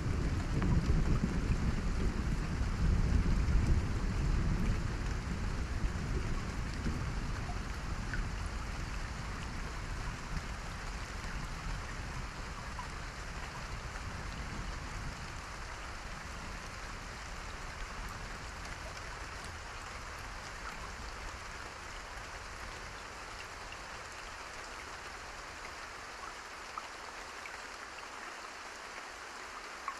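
Steady heavy rain falling, with a deep roll of thunder at the start that slowly fades away over the first half.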